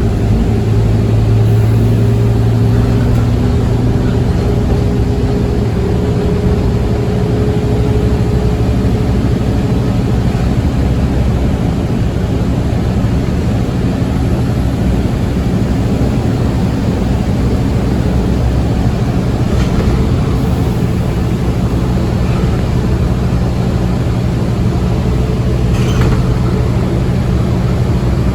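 Scania OmniCity bus's diesel engine running steadily at cruising speed, heard from inside the cabin with road and tyre noise. A higher hum over the engine fades out about nine seconds in, and a few faint rattles come near the end.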